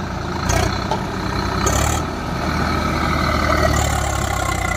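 Heavy diesel machinery engine running steadily at a low drone, with a couple of short bursts of noise in the first two seconds.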